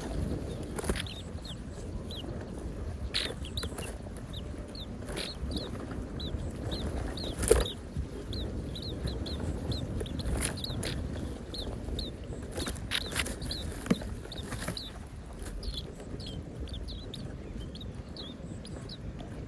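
Small birds giving short, high chirps over and over, with several sharp knocks or rustles, the loudest about halfway through, over a steady low rumble.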